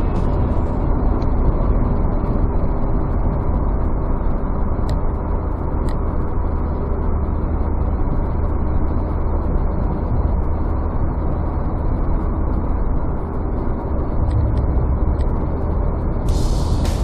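Car driving along the road: a steady low rumble of engine and tyre noise. Near the end a brighter hiss comes in.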